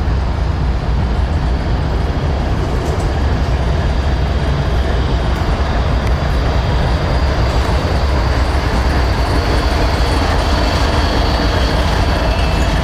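A train running past on the rails: a steady, loud rumble that holds without a break.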